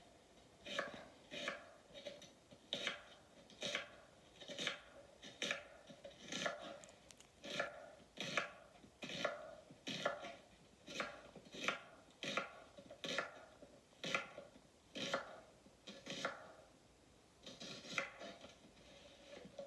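Knife slicing an onion on a cutting board: a steady run of crisp cuts, about one a second, each ending in a knock of the blade on the board.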